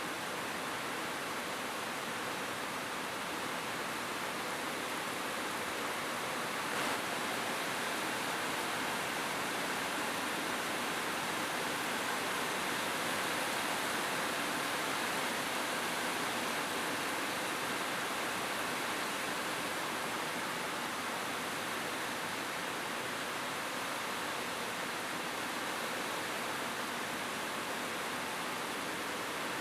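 Steady rain falling on a roof, an even hiss of many drops, with one sharper tap about seven seconds in.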